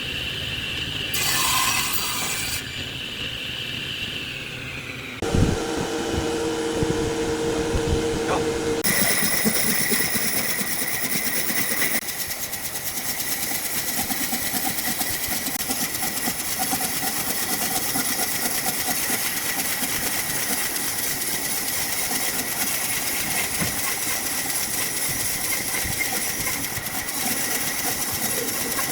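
Woodworking power tools running and cutting wood, in several short stretches that change abruptly from one to the next.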